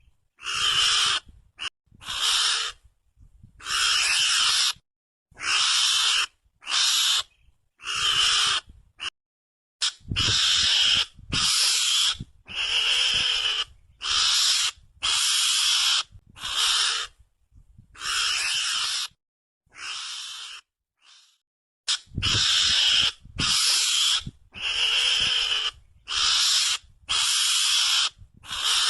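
Mongoose lure call (suara garangan) played for hunting: harsh, raspy calls repeated about once a second, each half a second to a second long and cutting off abruptly between gaps.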